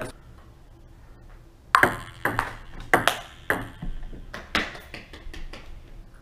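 A string of sharp taps or knocks from a hard object, about six in all and irregularly spaced, each with a short ring. They start a little under two seconds in.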